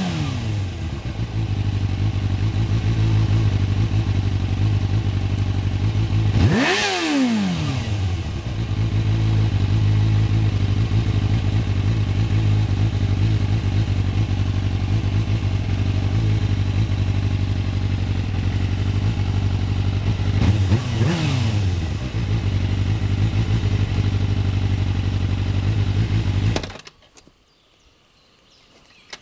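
Suzuki GSX-R inline-four sportbike engine running at a steady speed, with a quick rev that rises and falls about seven seconds in and a smaller one about twenty-one seconds in. Near the end the engine cuts out suddenly and goes quiet.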